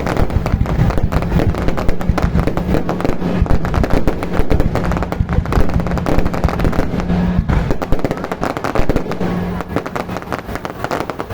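Fireworks exploding in rapid succession, a dense, continuous barrage of bangs and crackles.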